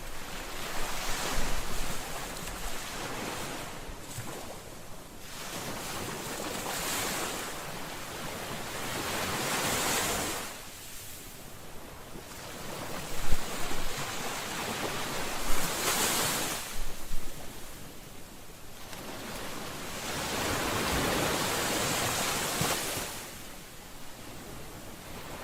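Ocean waves breaking on the shore, the surf swelling and falling back every few seconds, with a few louder crashes in the middle.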